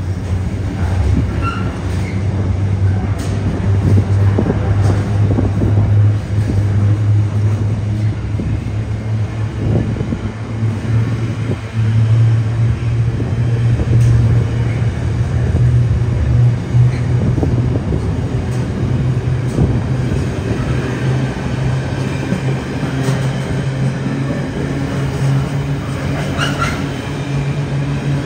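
A train passing through the station: a steady low drone, with frequent clicks and rattles of wheels on the track.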